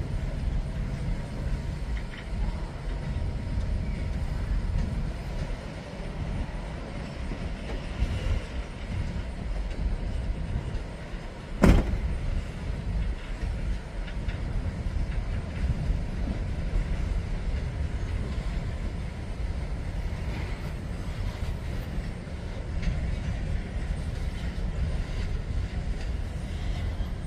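Freight train of covered hopper cars rolling past, a steady low rumble and clatter of steel wheels on rail. One sharp bang stands out about twelve seconds in.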